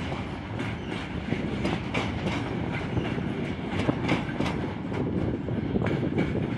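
Container flat wagons of a freight train rolling past, with a steady rumble and the wheels clicking repeatedly over the rail joints.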